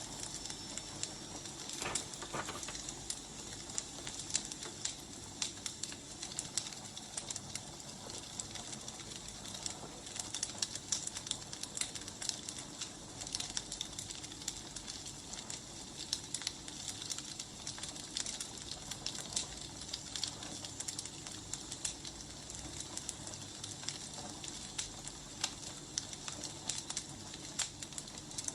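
Wood fire crackling, with frequent irregular small pops and snaps over a steady hiss.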